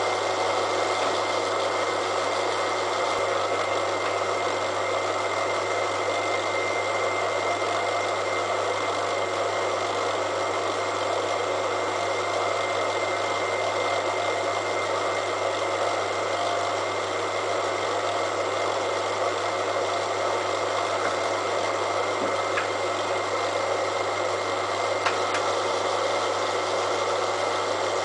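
Small Elliott Omnimill 00 milling machine running steadily, its cutter taking a facing cut along a piece of steel railway rail: a continuous mechanical hum with a steady high whine, and a couple of faint ticks near the end.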